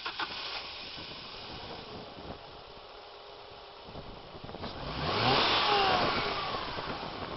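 Stock 2.0 Twin Spark 16-valve four-cylinder engine of a 1998 Alfa Romeo 156 running, heard from the open engine bay. It is revved once about five seconds in, the revs climbing and then falling back.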